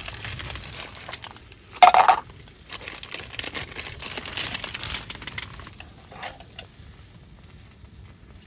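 Crinkling and rustling handling noises, with one short loud clatter about two seconds in, then scattered small clicks.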